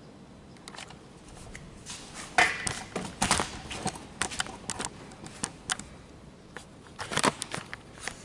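Irregular clicks and knocks of handling, loudest about two and a half seconds in and again about a second later, with no engine running.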